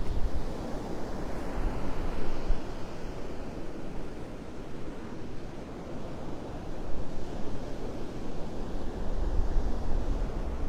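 Surf washing on a beach with wind, gusts of which buffet the microphone in uneven low rumbles.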